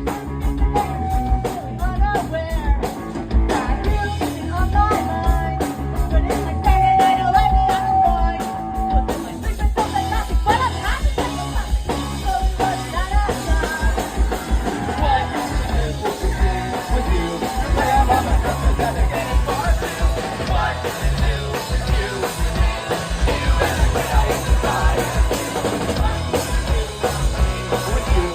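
Live pop-punk band playing: drums, bass and electric guitars, with a held guitar note over the beat in the first part and a busier, fuller section after about nine seconds.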